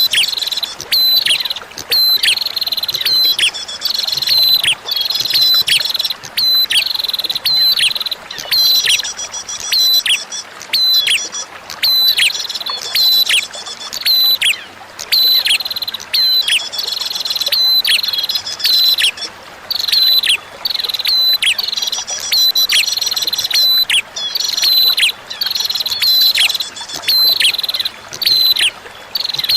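Prinia (prenjak) song: runs of loud, sharp chirps, each dropping quickly in pitch, repeated several times a second with short breaks, over a faint hiss of flowing water.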